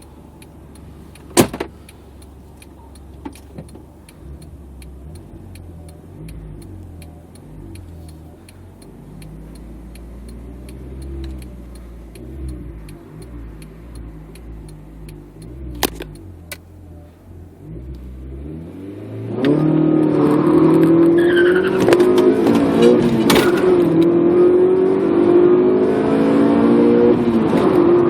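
Honda Accord H22A 2.2-litre VTEC four-cylinder, on 2.2-inch exhaust piping, running low and steady at idle with a light regular ticking. About 19 seconds in it goes to full throttle: much louder, the revs climbing steeply and stepping down at each gear change.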